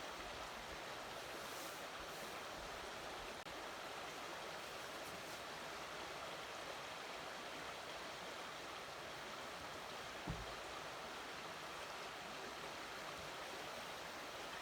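Steady rushing of a high, fast-flowing river. A single low thump about ten seconds in.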